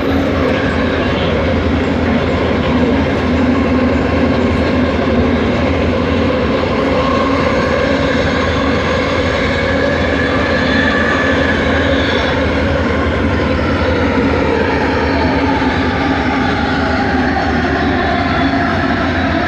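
Bombardier Innovia ART 200 train running, heard from inside the car. There is a steady rumble of wheels and running gear with the whine of its linear induction motors, and the whine falls in pitch over the second half.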